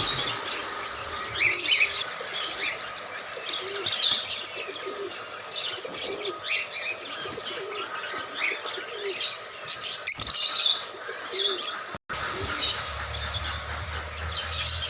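Mixed birds calling: many short, sharp high chirps, with low repeated dove-like coos through the middle stretch. The sound cuts out for a moment about twelve seconds in.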